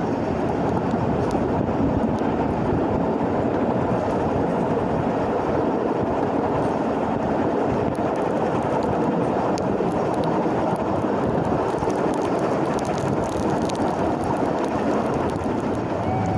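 Steady rumble of an Isle of Man Railway steam train running along the track, with no clear beat or change.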